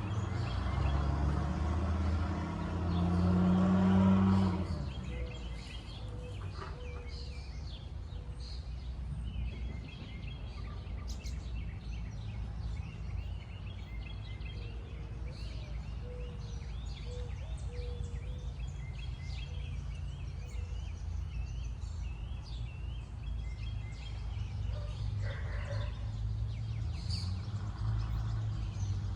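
Diesel locomotive engines running, loud for the first four seconds or so, then dropping away to a low rumble. Birds chirp throughout.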